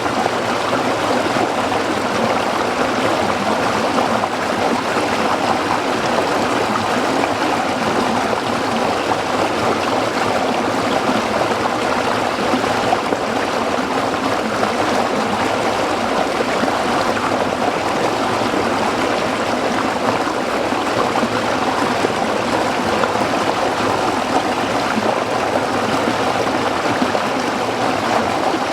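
Small stream flowing over rocks, a steady babbling rush.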